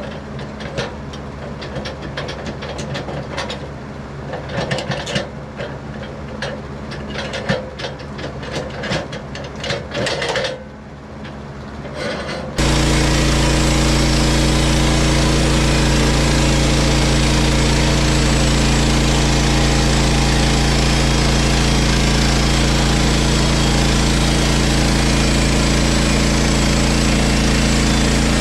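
Small gasoline engine of a portable band sawmill running steadily, with irregular knocks and clatter over it for the first dozen seconds. About twelve seconds in it switches abruptly to a much louder, steady engine run with a strong hiss.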